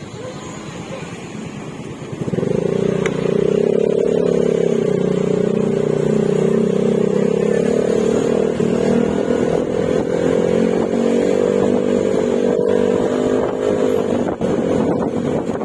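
Yamaha Mio Gravis 125 cc single-cylinder scooter engine through an aftermarket Akrapovic exhaust with silencer: the throttle opens about two seconds in, the exhaust note jumps up and then holds a steady drone at cruising speed, easing slightly near the end.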